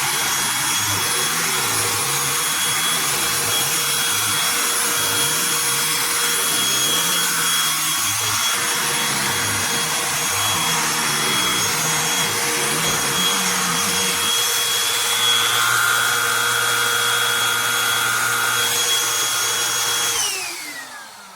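Cordless handheld vacuum with a motorized brush head running steadily on carpeted stairs. It is switched off near the end, and the motor whine falls in pitch as it winds down.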